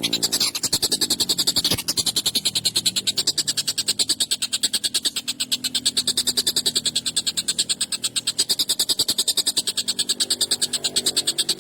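A tengkek buto kingfisher calling in a fast, harsh, rattling series of about ten pulses a second, kept up without a break.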